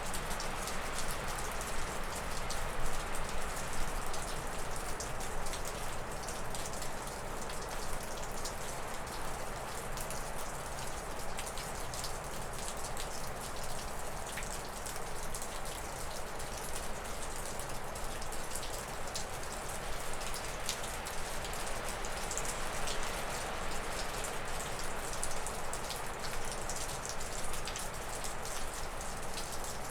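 Wind rushing through spruce and birch trees, swelling and easing in gusts, over a close, constant patter of meltwater drips falling off a roof.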